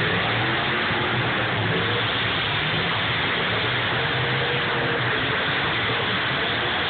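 Many demolition derby cars' engines running at once, a dense steady din of engines with no single crash standing out.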